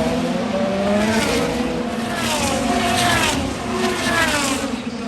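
IndyCars' twin-turbocharged V6 engines at speed as several cars pass in quick succession, each one's engine note falling in pitch as it goes by.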